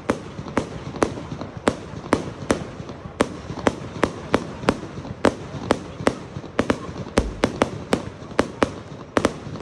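Fireworks going off in a rapid, fairly even string of sharp bangs, about two a second, over a low continuous rumble.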